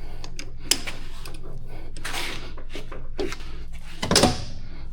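Metal tools and parts clinking and knocking as they are handled at a metal lathe, with a louder knock about four seconds in, over a steady low machine hum.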